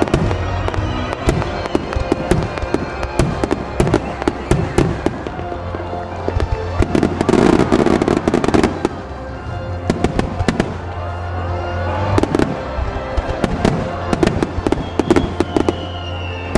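Starmine fireworks display: shells fired in rapid succession, bursting and crackling, with music playing behind. The bursts come thickest and loudest about seven to nine seconds in.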